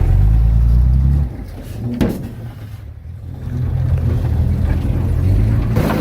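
Heavy diesel engine of earth-moving machinery running. It is loud at first, drops after about a second, then builds back up from about three and a half seconds in, with a single sharp knock near the middle.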